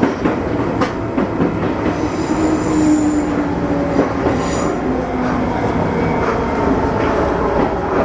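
Izuhakone Railway Sunzu Line electric train running, heard from inside the car: a steady wheel-on-rail rumble with a low whine that falls slightly in pitch, a few short clicks, and brief high wheel squeals a couple of seconds in and again near the middle.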